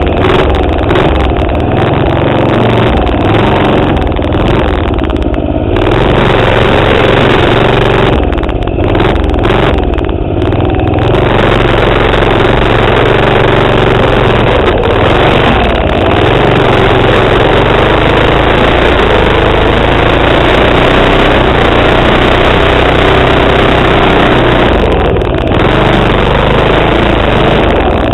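Small single-cylinder four-stroke engine of a Manco minibike (3.5 hp Tecumseh) running loud under throttle, its pitch rising and falling as the revs are opened and backed off, with brief throttle dips a few times.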